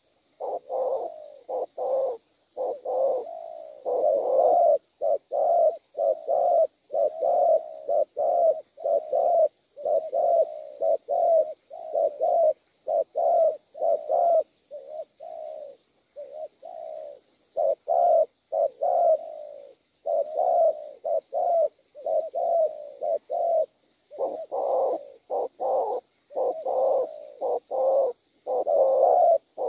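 Wild-caught spotted dove giving its bowing coo: short, low, throaty notes repeated in quick runs, with only a few brief pauses.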